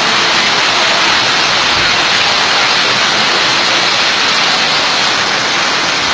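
Rainwater cascading down a flight of steps like a waterfall, a steady loud rush, under heavy rain.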